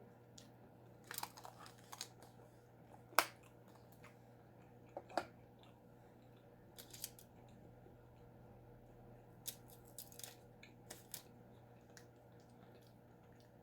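A person eating close to the microphone: scattered wet mouth clicks and smacks of chewing food, with the sharpest click about three seconds in and another pair about five seconds in, over a faint steady low hum.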